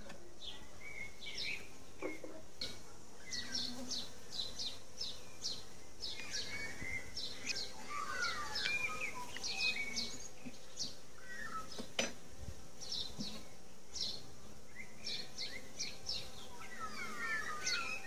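Small birds chirping and twittering again and again, with short high notes and quick gliding calls, over the faint hum of honey bees at an open hive. A single sharp click sounds about twelve seconds in.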